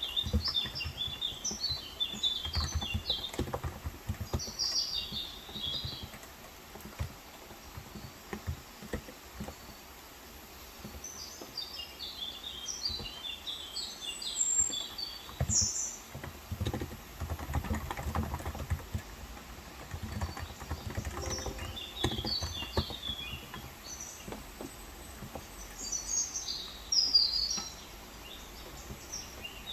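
Typing on a Cox Endeavour electro-capacitive tenkeyless keyboard with light 35 g switches: an uneven patter of soft keystrokes that thins out for a few seconds about a quarter of the way in. Birds chirp in short bursts over the typing.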